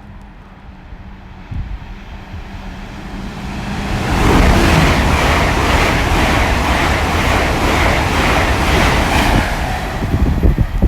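Great Western Railway Intercity Express Train passing through the station at speed: a low hum as it approaches, then a loud rush of wheel and air noise from about four seconds in, easing near the end.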